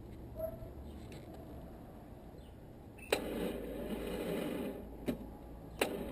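BMW R1150RT's starter pressed on a flat battery: a click about three seconds in, then the starter labouring weakly for a few seconds without the engine firing, and another click near the end as it is tried again.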